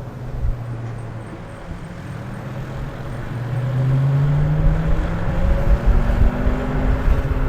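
Electric motor of a Silence S01 electric scooter whining low and steady, then rising in pitch as the scooter accelerates from about halfway, with wind rumble on the microphone growing louder along with it.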